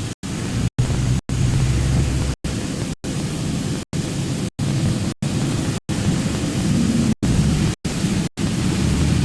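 Loud, steady hiss over a low rumble, typical of a truck's road and engine noise while driving. The sound is chopped by about a dozen brief, complete dropouts, roughly one every half second to second.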